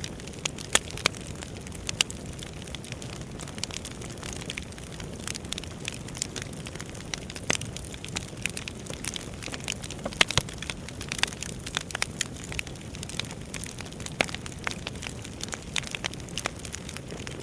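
Firewood crackling as it burns: irregular sharp pops and snaps, a few louder than the rest, over a steady low rumble of the fire.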